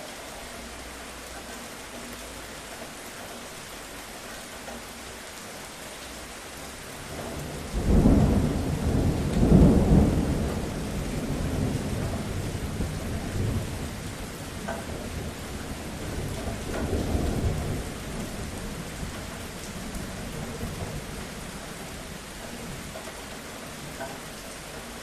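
Steady rain falling, broken about a third of the way in by a sudden clap of thunder whose low rumble rolls on and swells again before fading back into the rain.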